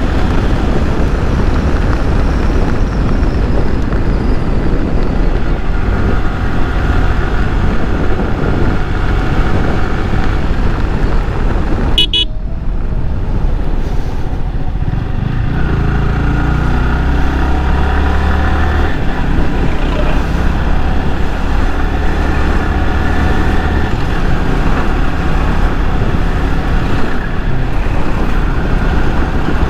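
Yamaha R15 V3's single-cylinder engine running at highway speed under heavy wind noise on the camera microphone, with road traffic around it.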